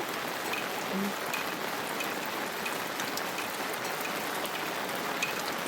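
Heavy monsoon rain falling steadily, an even hiss with scattered drips and taps of drops landing on nearby surfaces.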